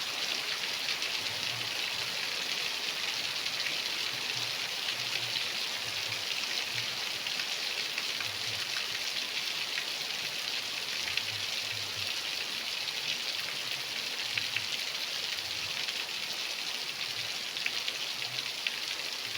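Steady rain falling, a dense even hiss of many small drop impacts that keeps on without let-up.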